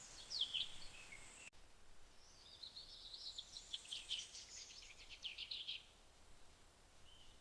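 Faint birdsong: a couple of high chirps about half a second in, then a fast run of repeated chirps from about two and a half to six seconds in.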